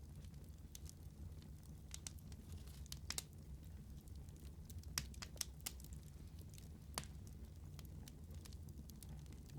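Wood fire burning in a fireplace, with scattered sharp crackles and pops over a low steady rumble; the loudest pops come about halfway through and again near the two-thirds mark.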